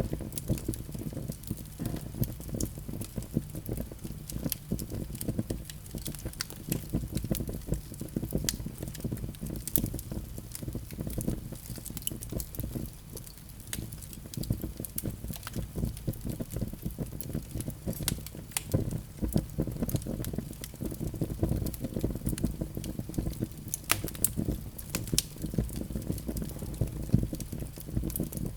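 Fire burning in a fireplace: frequent irregular crackles and pops over a low, steady rumble of the flames.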